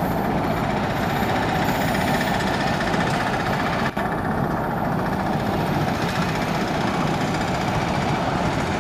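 Steady running noise of a receding Indian Railways LHB express train, with the diesel engine of its end-on-generator power car at the rear. There is a brief break about four seconds in.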